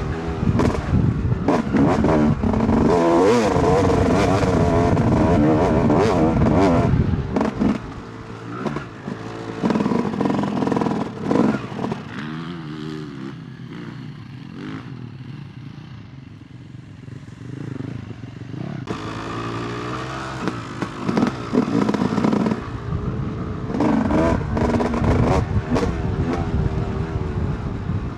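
Two-stroke Yamaha YZ250 dirt bike engine revving hard, its pitch rising and falling with the throttle. About eight seconds in it eases off for roughly ten seconds, then revs up hard again. Frequent knocks and clatter come from the bike over rough ground.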